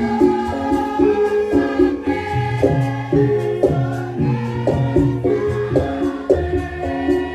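Javanese gamelan music accompanying a lengger topeng dance: voices sing over a stepping melody of tuned percussion, with a low bass line and a steady drum beat.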